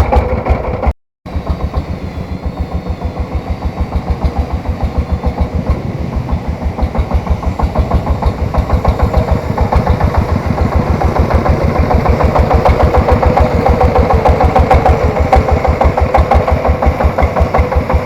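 Three-wheeled farm tractor's single-cylinder diesel engine running with a rapid, even thumping, getting louder in the second half. The sound drops out briefly about a second in.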